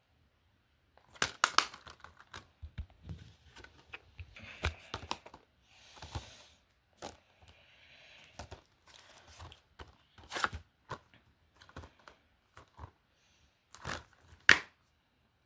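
Plastic DVD cases being handled: irregular clicks and clacks, with rustling and crinkling. The loudest clack comes near the end.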